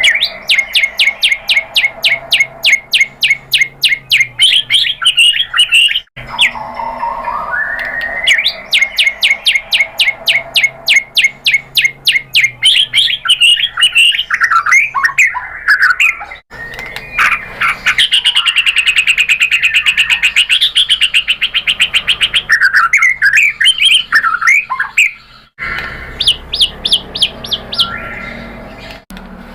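White-rumped shama (murai batu) singing: long runs of rapid repeated sharp notes mixed with varied whistles and trills, including a very fast rattling run in the middle. The song cuts off and restarts abruptly a few times.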